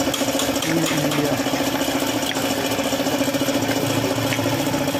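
A small engine or motor-driven machine running steadily, with a constant hum and a fast, even pulse.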